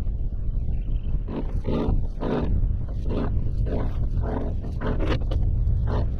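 An anchor being hauled in by hand: a run of rough, rasping pulls, roughly one every half second to second, beginning about a second in. Wind rumbles on the microphone underneath.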